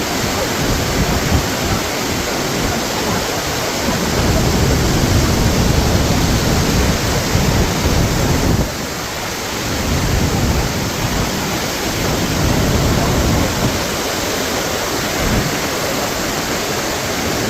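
Iguazú Falls at close range: a loud, dense, steady rush of falling water, its low end rising and falling, with a short dip in level about nine seconds in.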